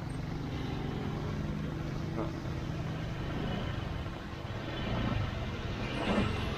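A car driving close by, its engine running steadily over road noise in street traffic.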